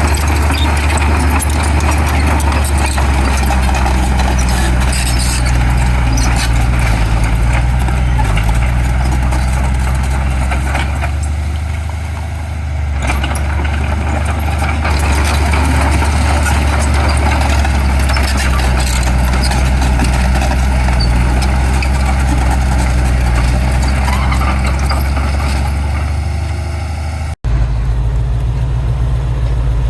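Heavy diesel construction machinery running steadily with a deep engine drone. There is a brief break near the end, after which the engine note is different.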